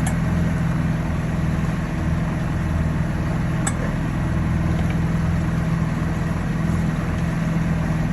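Boat engine running steadily, a low even drone, with one short click about three and a half seconds in.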